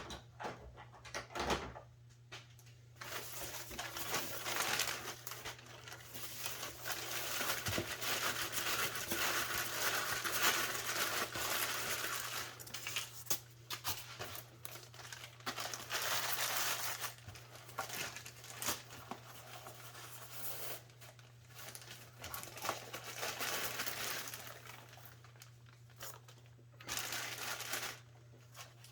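Packaging crinkling and rustling as model subway cars are unwrapped, with small clicks and knocks. A faint steady low hum runs underneath.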